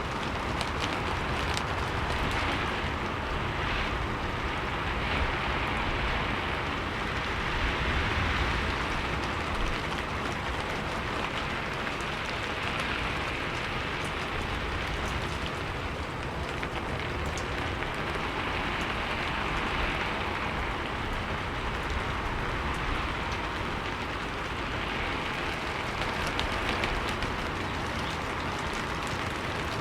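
Steady rain falling on a surface, a dense hiss with scattered drop ticks that swells and eases gently every few seconds.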